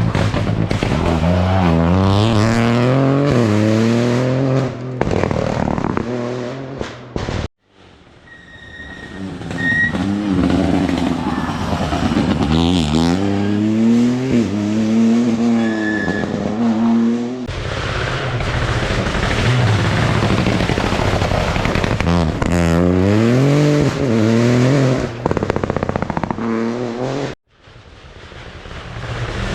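Rally car engines revving hard as the cars accelerate, the pitch climbing and dropping again and again with each gear change. There are three separate passes, each one cut off abruptly.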